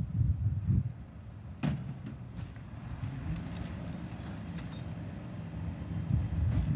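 Garbage truck engine running with a low rumble and a steady hum, with one sharp bang about two seconds in; the rumble grows louder near the end.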